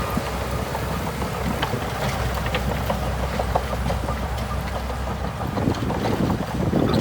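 Shantui DH17C2 bulldozer's diesel engine running steadily, with scattered clanks and rattles throughout; the engine note shifts about five and a half seconds in.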